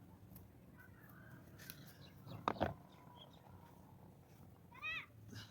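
Two sharp knocks close together about halfway through, then a short animal call near the end.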